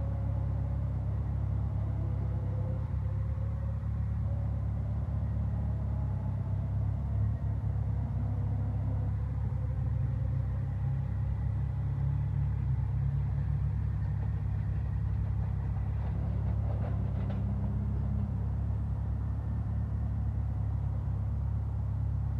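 British Rail Class 318 electric multiple unit pulling away from the platform and moving off down the line, with a steady low rumble throughout and a faint rising motor whine in the first few seconds that fades.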